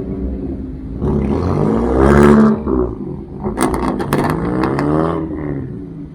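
A car engine revving up, easing off and revving up again, with a quick run of sharp cracks in the middle of the second rise.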